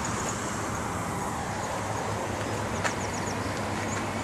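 Steady background noise of road traffic or a vehicle running, with a faint low hum and a single light click about three seconds in.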